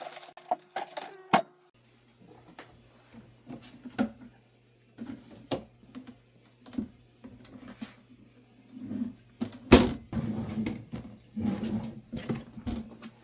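Scattered clicks, taps and knocks of objects being handled, over a faint low steady hum. The handling becomes busier and louder near the end.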